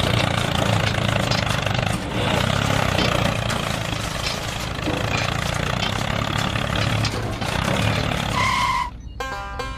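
A vehicle engine running steadily, with a short electronic beep near the end, after which music starts.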